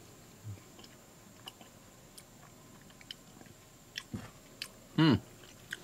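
A person chewing a bite of soft, juicy tomato: small wet clicks and smacks of the mouth. About five seconds in there is a short, louder hum with falling pitch from the taster.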